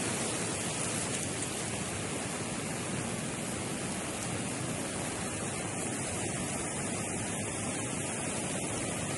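Swollen, flooding river current rushing steadily, a continuous even roar of fast-flowing water.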